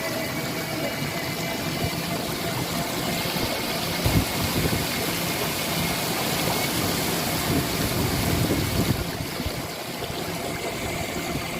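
An engine running steadily, with a short low thump about four seconds in.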